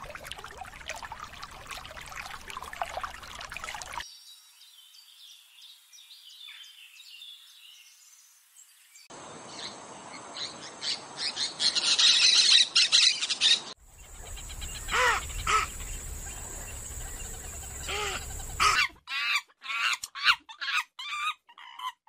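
A string of cut-together nature recordings. A steady hiss for the first few seconds, then a faint stretch, then loud dense bird chirping from about halfway, followed by repeated rising-and-falling bird calls and quick separate calls near the end.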